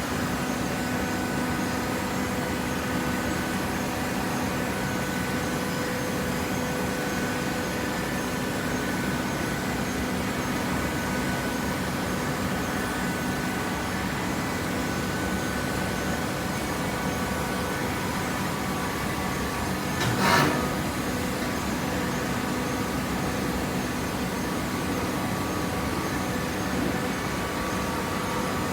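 Hydraulic cardboard baler's power unit running with a steady hum, with one brief knock about two-thirds of the way through.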